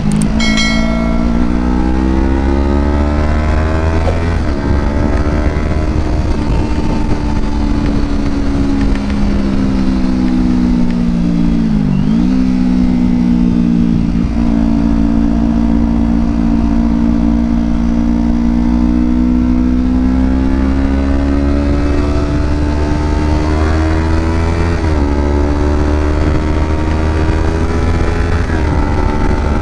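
Kawasaki Ninja 250's parallel-twin engine pulling hard under acceleration, its pitch climbing through the revs and dipping briefly at each quickshifted gear change, about five times.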